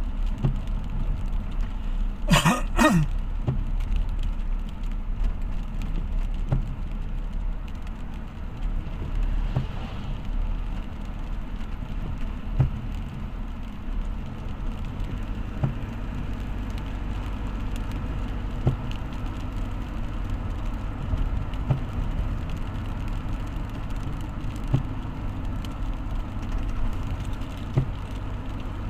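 A road vehicle running steadily on the move, a low continuous rumble. About two seconds in come two short, sharp sounds close together.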